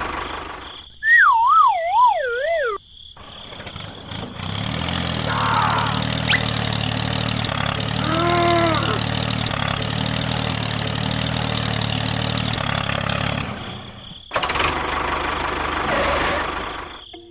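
Engine running steadily for about ten seconds, after a short wavering whistle-like tone that slides up and down near the start. A brief arched call-like tone sounds over the engine midway, and a noisier stretch follows near the end.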